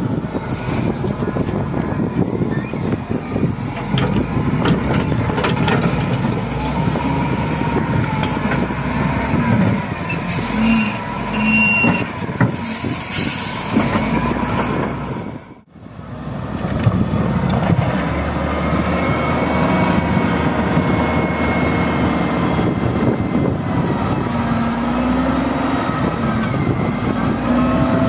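Heavy diesel engines of wheel loaders and dump trucks running and working under load, the pitch shifting as the engines rev. The sound drops out briefly about halfway through, then carries on.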